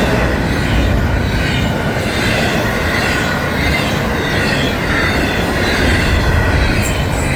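Florida East Coast Railway freight train passing close by: a steady, loud rumble of freight cars rolling over the rails.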